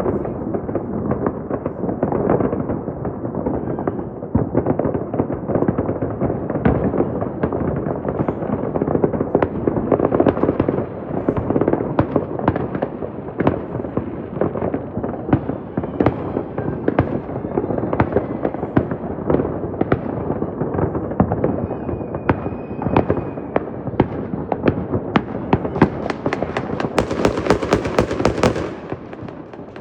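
Many fireworks going off at once, a continuous dense barrage of overlapping bangs and crackles with no pause. Near the end sharper, brighter crackling comes in on top.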